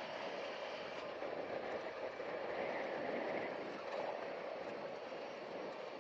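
Honda Pioneer 700-4 side-by-side driving along a rough dirt trail: a steady blend of engine and tyre noise, a little louder around the middle.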